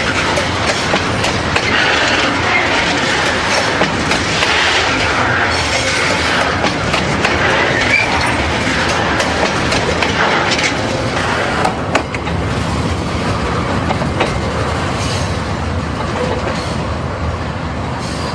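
Freight train tank wagons rolling directly overhead, their steel wheels clattering on the rails with a rapid run of clicks over the rail joints. It grows a little fainter near the end as the last wagon rolls away.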